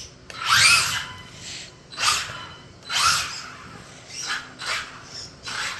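An RC drag car's brushless electric motor whines in about six short full-throttle bursts, each rising in pitch as the car spools up and shoots off. The first burst is the loudest.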